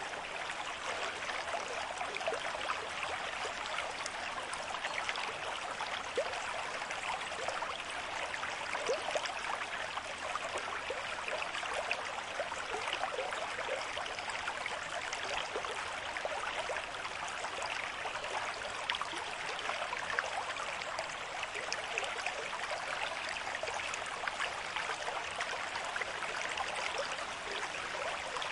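A stream with moderate flow running over stones, with a steady rush of water and many small splashes and gurgles.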